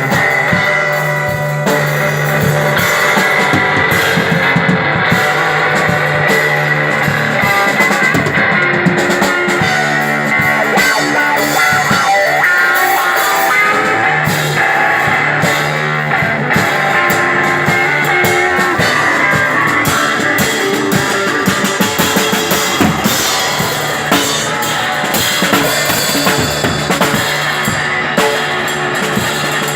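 Live instrumental psychedelic rock: a guitar playing held, riffing notes over a full drum kit with bass drum and cymbals, without vocals.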